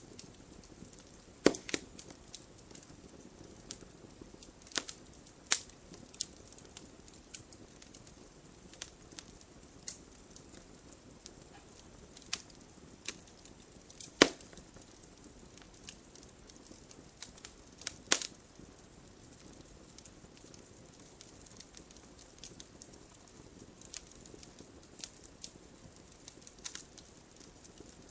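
Wood fire crackling: irregular sharp pops and snaps over a soft steady hiss. A few pops stand out louder, about a second and a half in, around fourteen seconds in and around eighteen seconds in.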